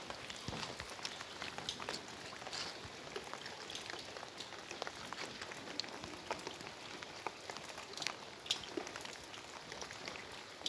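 Heavy rain falling, a steady hiss with many irregular drops pattering and ticking on hard surfaces.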